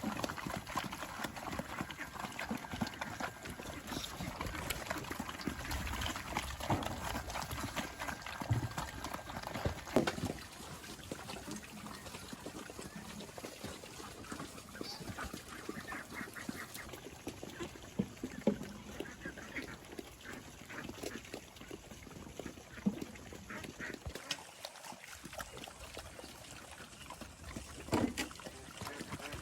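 Farm animals calling on and off, mixed with scattered knocks and rustling.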